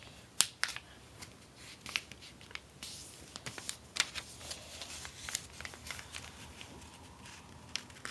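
A sheet of paper being handled and folded by hand, with scattered crisp rustles and sharp creasing ticks.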